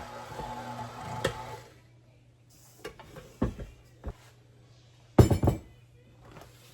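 Older KitchenAid stand mixer kneading bagel dough, its motor running with a steady hum until it cuts off a little under two seconds in. Then come scattered clinks and knocks of kitchen bowls and dishes, the loudest a quick cluster of knocks a little after five seconds.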